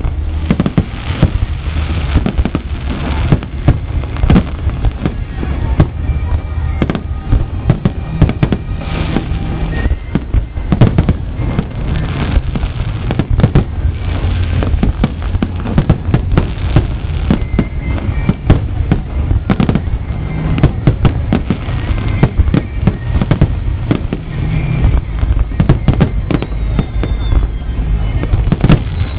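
Fireworks display in full barrage: a dense, unbroken string of bangs and crackling bursts, several a second, over a deep rumbling low end.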